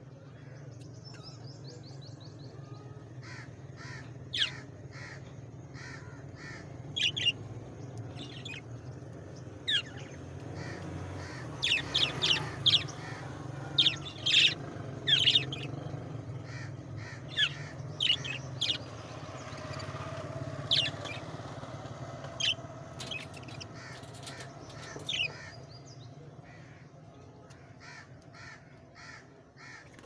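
Caged birds calling: many short, sharp calls and squawks, thickest in the middle, over a steady low hum.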